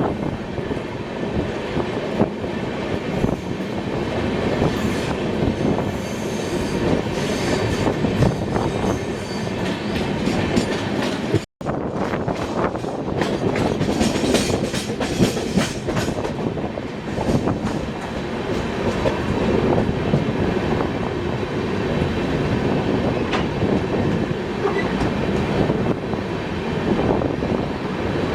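Train running through a steep, winding mountain section, heard from on board: wheels clattering over the rails in a continuous rumble, with a high wheel squeal at times as the train takes the sharp curves. The sound cuts out for an instant about eleven and a half seconds in.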